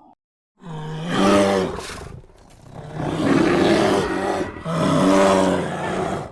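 Lion roaring: three long, loud roars, the first starting about half a second in, the last cutting off suddenly at the end.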